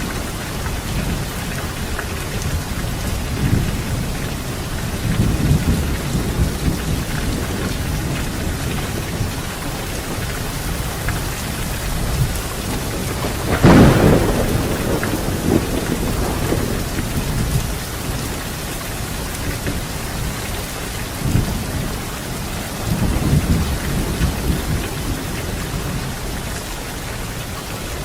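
Steady rain with thunder: low rolling rumbles come and go, and about halfway through a sharper thunderclap is the loudest moment.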